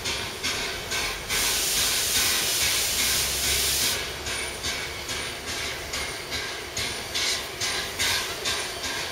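A1 Pacific steam locomotive 60163 Tornado arriving, with a loud hiss of steam for about two and a half seconds near the start. Under it runs a regular rhythm of short clicks, about two or three a second, as the train rolls in.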